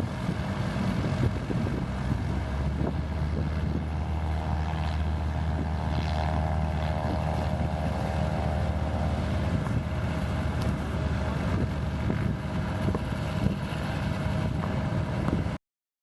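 Aircraft engine running steadily close by, with its propeller or rotor wash buffeting the microphone as wind noise. The sound cuts off suddenly near the end.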